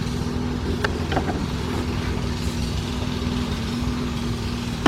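A lawn mower engine running steadily in the background, with a few light clicks and one sharp click near the end.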